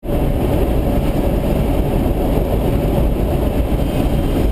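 Truck driving along a road: a steady, loud engine and road rumble.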